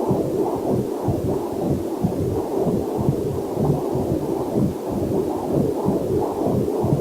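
Heartbeat picked up by a Doppler heart monitor: quick, even whooshing pulses, with a faint waterfall hiss mixed in underneath.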